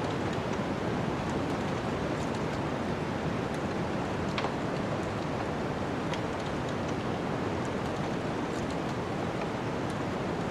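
Wood fire crackling, with a few sharp pops scattered through it and the clearest about four and a half seconds in, over a steady rushing noise.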